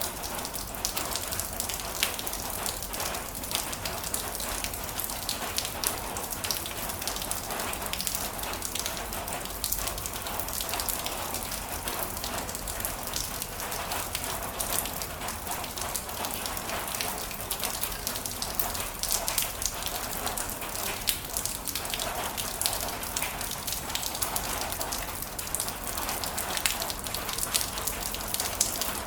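Heavy rain falling steadily, with dense pattering of drops hitting a surface.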